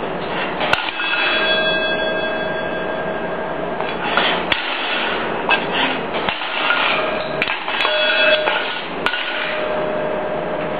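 Steel cup being struck and knocked about by a grey parrot: sharp metallic clanks, some followed by a clear ringing tone that hangs for a couple of seconds.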